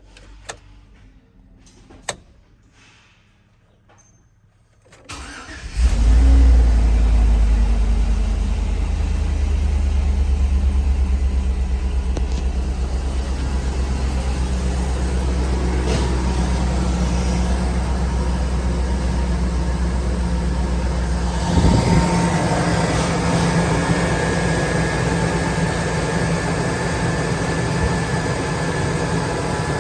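A 2004 Chevy Tahoe's 5.3-litre V8 is started about five seconds in, after a few clicks, and then runs steadily at idle. Its sound changes a little about 21 seconds in.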